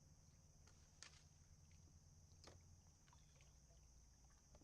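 Near silence: a faint low hum and a faint steady high tone, with a couple of faint clicks.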